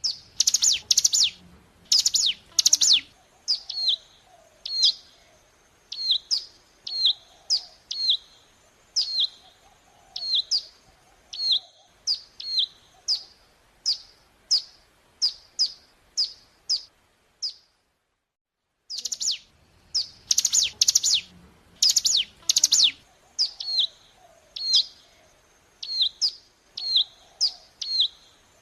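Ciblek gunung (a prinia) song played as a lure recording: a burst of quick, loud, high notes, then a string of short downslurred calls at about one a second. The recording stops for about a second near the middle, then the same sequence starts over.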